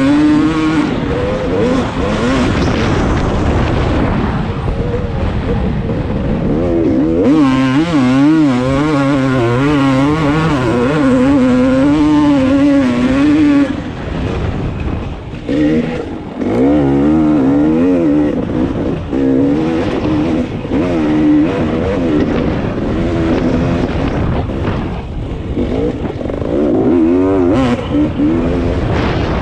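Dirt bike engine running hard as it is ridden, revving up and down repeatedly through the throttle, easing off briefly about a quarter of the way through before picking up again.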